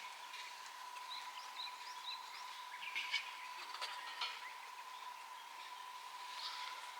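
Small birds chirping with many short calls, over a steady thin high tone. A few sharp clicks come about three to four seconds in.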